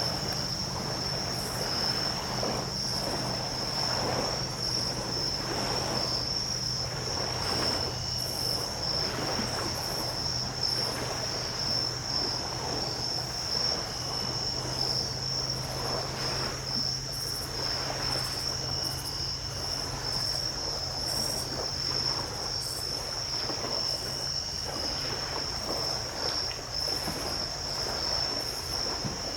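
A steady, high-pitched chorus of night insects at one pitch, over small waves washing gently onto the beach every couple of seconds. A low steady hum underneath stops about three quarters of the way through.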